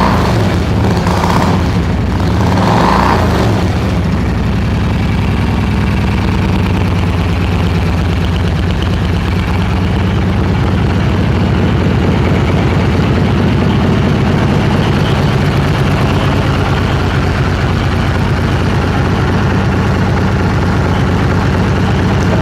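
2002 Yamaha XV1600 Road Star's air-cooled V-twin engine running, blipped a couple of times in the first few seconds and then settling to a steady idle.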